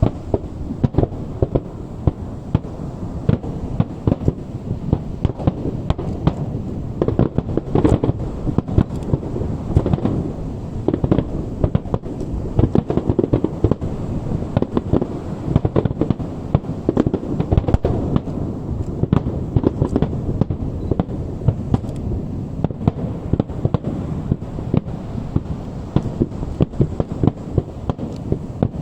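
Aerial fireworks exploding in a dense, continuous barrage of bangs and booms, many per second, heard from a distance across open water.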